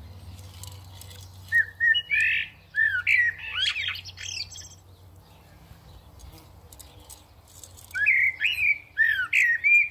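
Bird calls: two bouts of loud, sliding chirps and squawks, the first starting about a second and a half in and lasting about three seconds, the second starting near the end.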